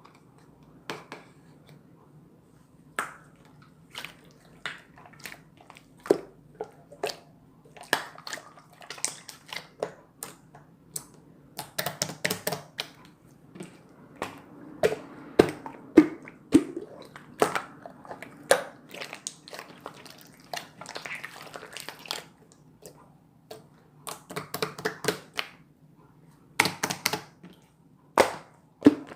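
Slime being squished and pressed by hand, giving irregular sharp pops and clicks, some in quick clusters with short pauses between.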